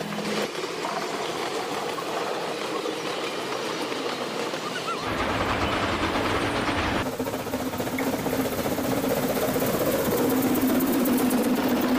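Trains running: first a passenger train rolling past on the rails, then, after abrupt changes about five and seven seconds in, steam locomotives working along the track, louder towards the end.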